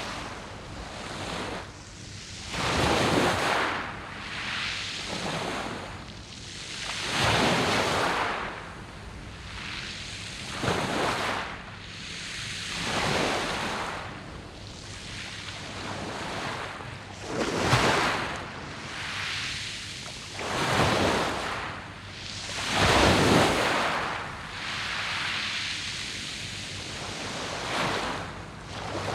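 Sea waves breaking and washing up a round-pebble beach, one surge of rushing water every two to four seconds, each swelling and dying away.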